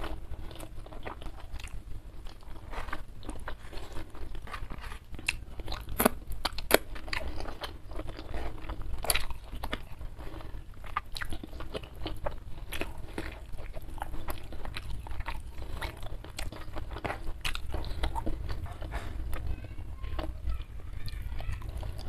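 Close-miked eating sounds of a person chewing a mouthful of food: a steady run of crunchy, clicking chews, with a few louder crunches about six to nine seconds in.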